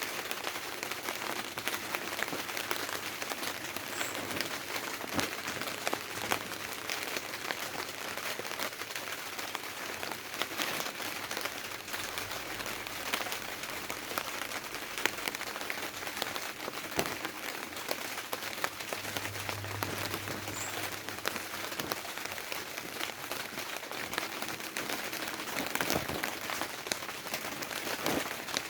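Rain falling on a tarpaulin: a steady dense patter of drops.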